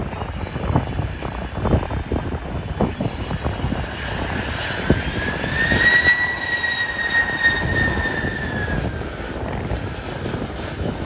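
Jet airliner passing the runway, its engine whine swelling about four seconds in, holding, then dropping slightly in pitch as it goes by. Wind buffets the microphone with uneven low rumbles and thumps.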